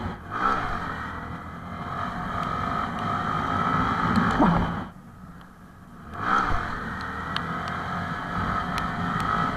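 Honda MSX125 SF minibike's small single-cylinder engine running under throttle during a wheelie. It goes much quieter for about a second roughly halfway through, then picks back up.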